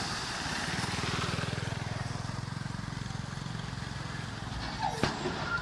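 Heavy construction machine's diesel engine running steadily, with a sharp knock near the end.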